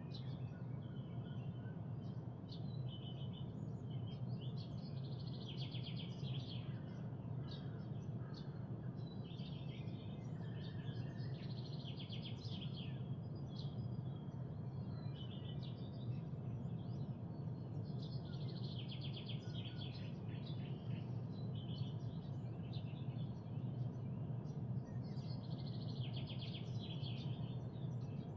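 Songbirds singing in short trilled phrases that come every few seconds, over a steady low rumble.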